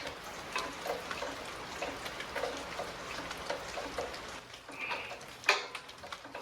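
Scattered light clicks and taps of a socket and extension knocking against metal while working toward a spark plug, with a brief squeak near five seconds and a sharper click about five and a half seconds in.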